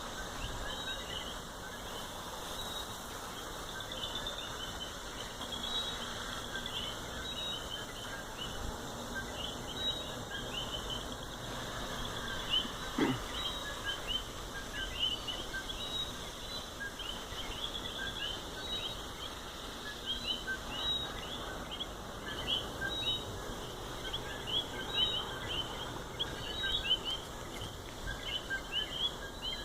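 A chorus of coqui frogs, many short rising chirps overlapping without a break. One brief thump partway through.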